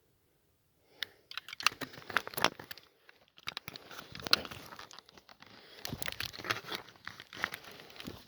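Irregular rustling and crackling, starting about a second in and going on in uneven clusters.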